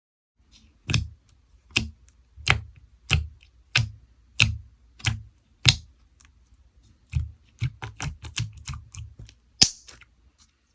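Slime being squished and pressed by hand, giving sticky clicking pops about one every two-thirds of a second, then a quicker run of smaller pops near the end.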